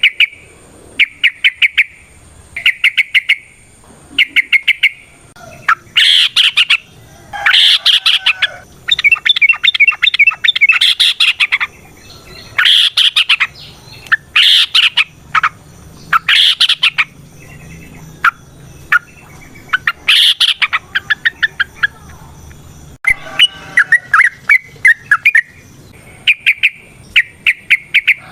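Yellow-vented bulbul (trucukan) singing: short, loud phrases of fast repeated notes, one after another every second or two, running together more densely about a third of the way in.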